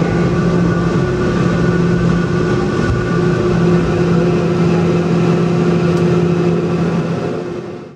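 Boeing 717's rear-mounted BMW Rolls-Royce BR715 turbofan engines running at a steady hum, heard from inside the cabin over a low rumble, fading out near the end.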